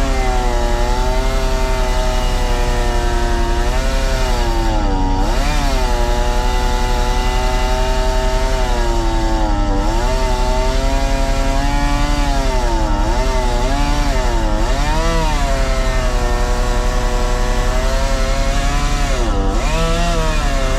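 Chainsaw running at high revs, cutting through a pine trunk. Its pitch sags and recovers several times as the chain bites into the wood.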